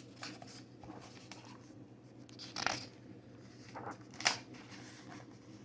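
Soft paper rustling of a picture book's pages being turned, with a couple of short swishes near the middle, over a faint steady low hum.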